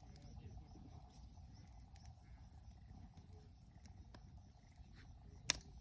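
Wood fire burning steadily in a fire pit, with a low rumble and scattered crackles; one sharp pop about five and a half seconds in.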